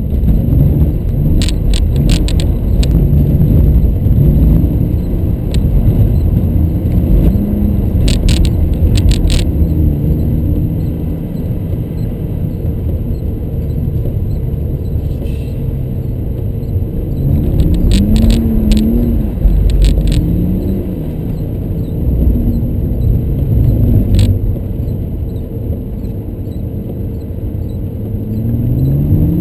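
In-cabin sound of a BMW E36 325i's 2.5-litre straight-six engine revving up and down over and over as the car slides on snow. Short bursts of sharp clicking rattles come in a few times.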